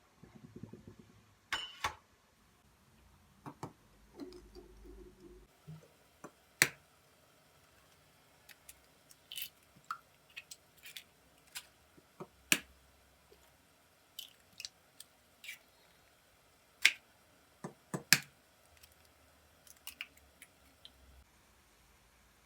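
Irregular sharp clicks and light knocks of small hard objects being handled, more than a dozen, with a brief rustle in the first second and a short low buzz about four seconds in.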